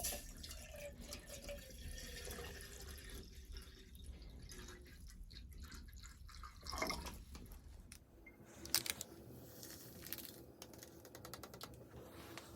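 Water pouring and dripping. One short pour rises in pitch about seven seconds in, followed by a couple of sharp clicks.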